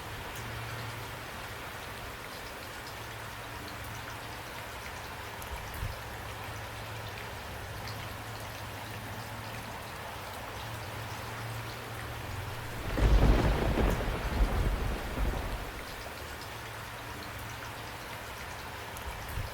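Steady rain falling, with a short, loud rumble of thunder about two-thirds of the way through that lasts a couple of seconds before the rain alone carries on.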